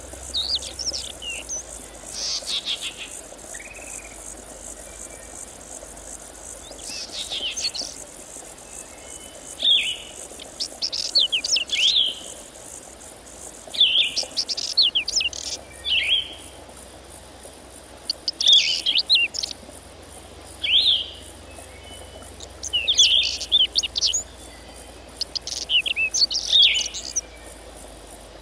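Songbird singing in short phrases of rapid, high chirping notes, one every two or three seconds, over a faint steady high hiss.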